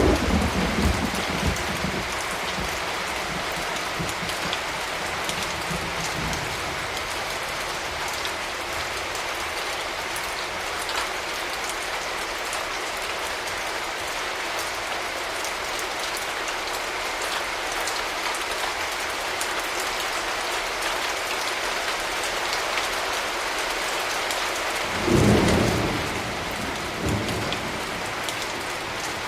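Steady rain falling, with a roll of thunder dying away over the first few seconds and another short rumble of thunder near the end.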